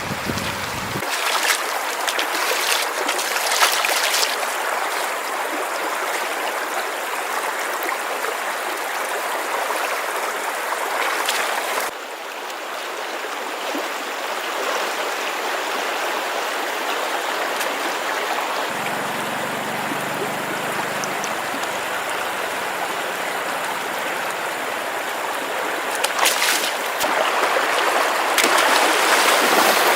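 Steady rush of flowing stream water, its level shifting abruptly about a second in and again about twelve seconds in.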